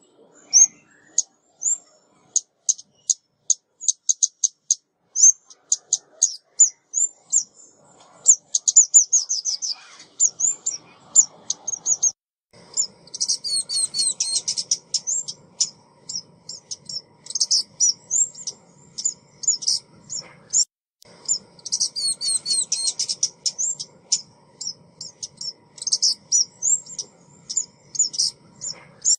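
Female ốc mít bird (a small Vietnamese songbird) calling: quick series of high, thin chirps and rapid trills, thicker in a few dense bursts, as played from a recording used to lure birds.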